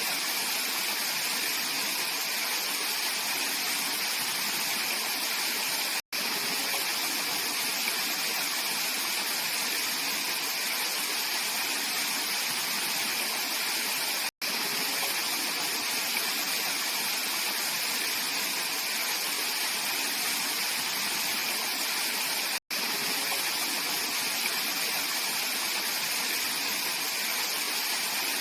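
Mountain valley stream rushing steadily. The sound cuts out for an instant three times, about eight seconds apart.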